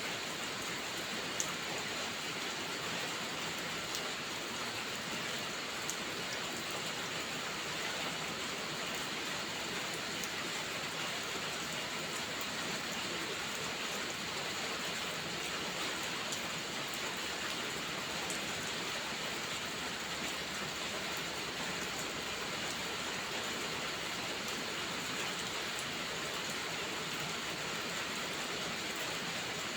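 Steady rain falling, an even hiss with no change in strength, with a few faint ticks scattered through it.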